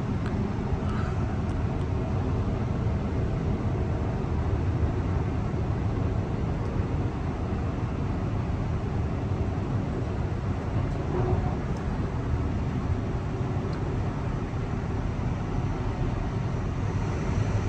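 Steady running noise inside a Mariyung D set electric train carriage in motion: a low, even rumble from the wheels and running gear.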